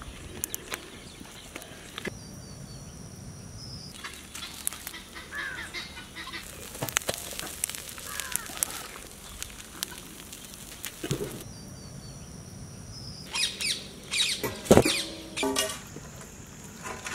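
Birds chirping and calling, with scattered clicks and knocks. A louder run of calls comes a little before the end.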